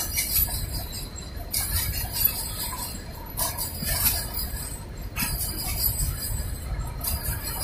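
Freight train of covered hopper wagons passing close by: steel wheels rumbling over the rails, with a high metallic ringing that swells and fades in a regular cycle about every second and a half as successive wheel sets go by.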